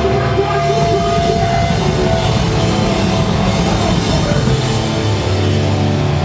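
Hardcore punk band playing live at full volume: distorted electric guitars, bass and drum kit.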